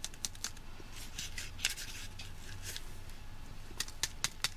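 Seasoning container being shaken and tapped, with short clicks and brief rustles as the clumped, damp seasoning refuses to come out; near the end the clicks turn into a quick regular run.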